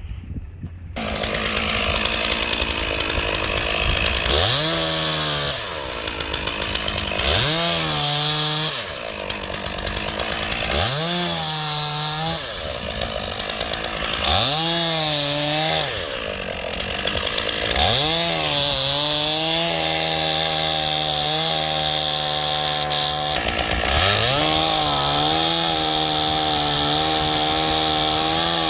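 Stihl 461 two-stroke chainsaw idling and being revved in about five short bursts, each rising and dropping back, then held at high revs for the last several seconds with a slight waver in pitch.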